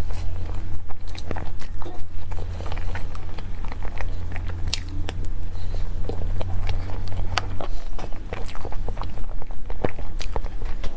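Close-miked mouth sounds of cake being bitten and chewed: many small, irregular clicks and smacks over a steady low hum.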